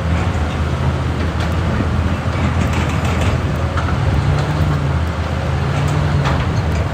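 Excavator's diesel engine running steadily under work, its note rising briefly about three times as the hydraulics take load, with a few faint knocks.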